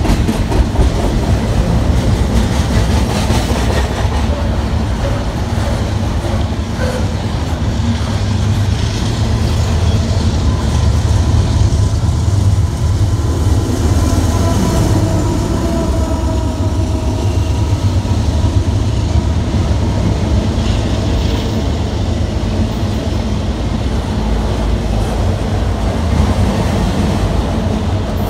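Long freight train passing close by: steel wheels clacking over rail joints under loaded double-stack container cars, with a steady heavy rumble. About halfway through, a mid-train diesel locomotive passes and its engine adds a louder throb, then autorack cars follow.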